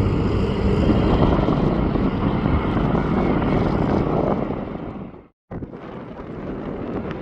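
Airliner jet engines running as a loud, steady noise with a low hum in it. The noise fades about four and a half seconds in, breaks off for an instant, then goes on at a quieter level.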